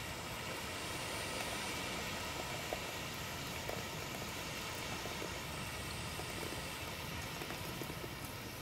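Steady rushing outdoor background noise with a few faint clicks scattered through it.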